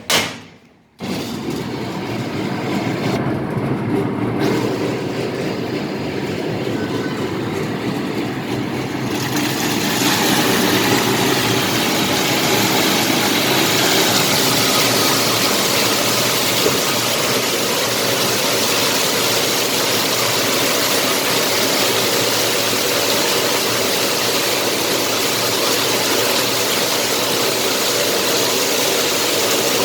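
MAXIA MX-LP220 washing and peeling machine with carborundum rollers switching on with a sharp click and running steadily. About nine seconds in, a loud steady hiss joins the running.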